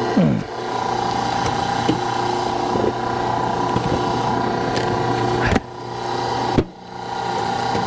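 Hydraulic log splitter running steadily under power, with two sharp cracks about a second apart near the end.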